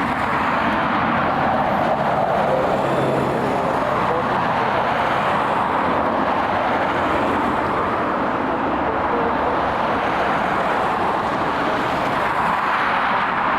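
Aircraft engines at the airport making a steady roar, with no clear rise or fall.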